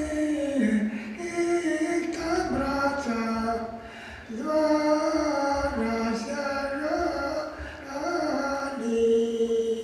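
A voice singing a slow melody in long sustained notes, with a short break about four seconds in and a long held note near the end.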